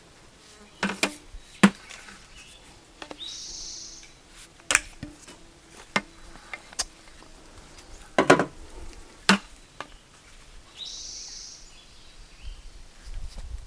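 Scattered sharp knocks and clicks of plumbing fittings and tools being handled while a tee is fitted into a water line, with two brief hissing sounds of about a second each, one early and one near the end.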